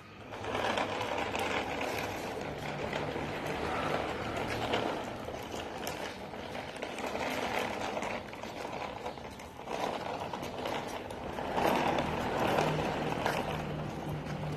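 Toy truck's small electric motor running as it drives along, wheels rolling, the sound rising and falling in level.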